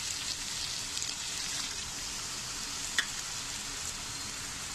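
Potatoes and cluster beans sizzling steadily in oil and masala in a kadhai, with one sharp click about three seconds in.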